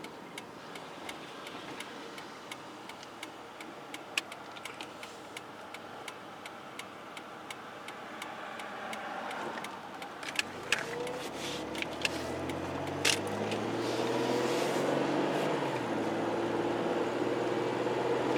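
Car engine and road noise, with a run of faint, evenly spaced ticks through the first half; from about ten seconds in the engine hum grows steadily louder, with a few sharp clicks along the way.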